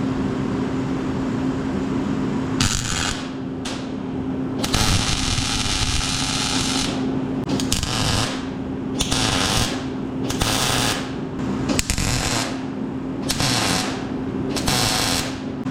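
A power tool run in repeated bursts of about half a second to two seconds each, with short pauses between, over a steady low hum.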